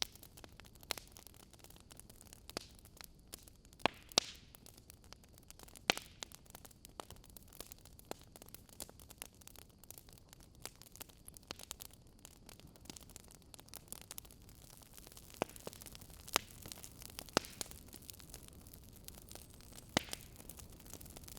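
Wood fire burning with a faint, steady hiss and irregular sharp crackles and pops from the logs, a few of them louder snaps.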